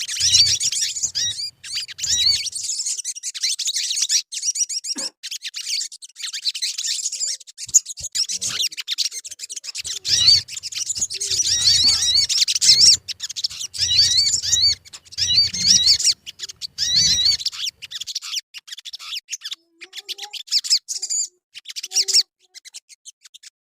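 Sogon bird song: rapid, high twittering chirps and quick up-and-down whistled notes in dense runs with short breaks, thinning to scattered chirps in the last few seconds.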